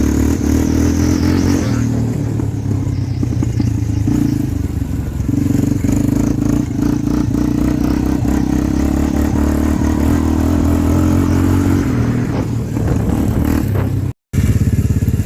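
Dirt bike engine running at a fairly steady speed. It cuts off abruptly about fourteen seconds in.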